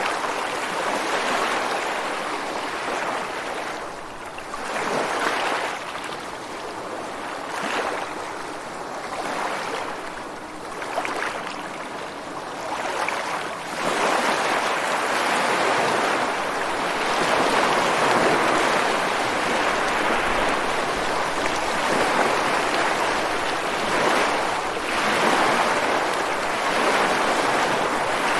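Ocean waves breaking and washing over rocks on a beach, a continuous rush of surf that swells and ebbs. The surf grows louder and fuller about halfway through.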